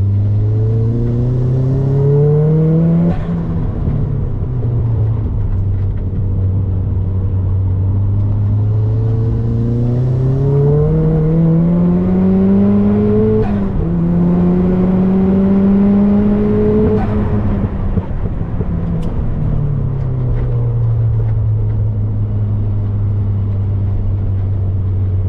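Turbocharged Mazda MX-5 engine pulling hard under acceleration, its revs climbing with sharp drops at gear changes about three seconds and about thirteen seconds in. It climbs again, then eases off from about seventeen seconds in and settles to a steady lower note.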